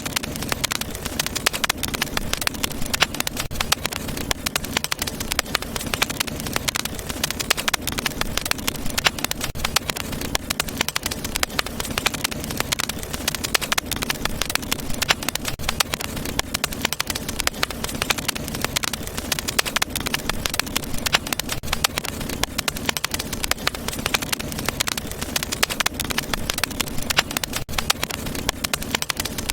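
Wood fire crackling in a fireplace: dense, irregular pops and snaps over a steady low sound of burning.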